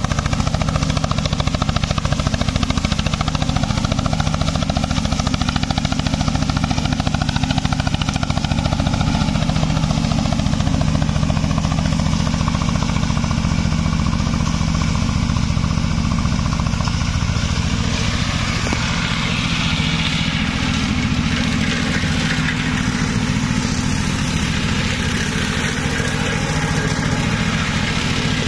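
Engine of a hydraulic grass mower running steadily under power. About two-thirds of the way in its sound shifts, with more high hiss on top of the engine hum.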